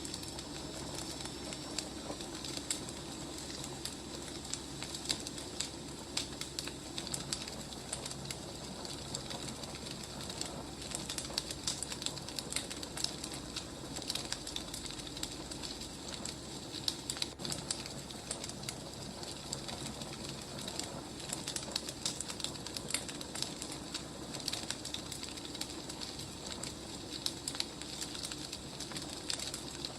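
Firewood burning: a steady low hiss with frequent, irregular sharp crackles and pops.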